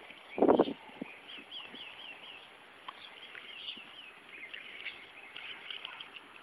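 Small birds chirping over and over in quick, arched high notes, with a short loud thump about half a second in.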